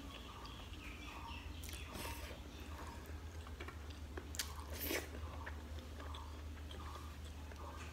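Close-miked chewing of a mouthful of rice and chicken, with wet mouth sounds and two sharp smacks about halfway through, over a steady low hum.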